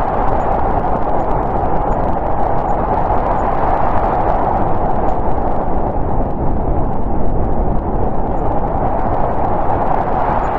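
Snowstorm wind blowing steadily, a dense rushing noise with a low rumble beneath. It eases slightly past the middle and builds again near the end.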